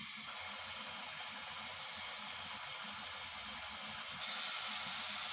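Minced meat and tomato purée sizzling and bubbling in a pot on the stove as the tomato liquid cooks off. It is a steady hiss that turns suddenly louder and brighter about four seconds in.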